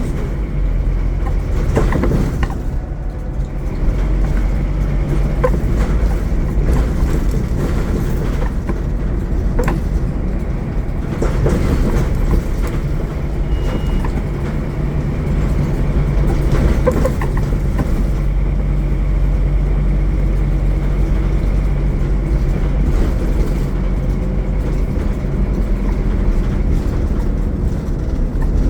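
Scania N230UD Omnicity double-decker bus heard from on board, its five-cylinder diesel engine running steadily, with scattered short rattles and knocks from the bus body.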